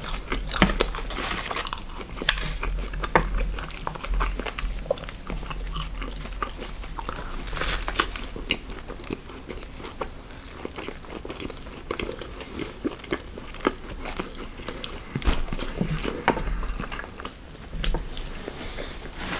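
A person chewing and biting into fast food close to the microphone, with frequent irregular sharp crunches and mouth clicks.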